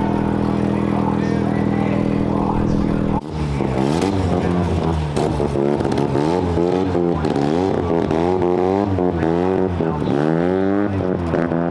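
Car engine idling steadily, then after about three seconds revved again and again, its pitch swinging up and down about once a second.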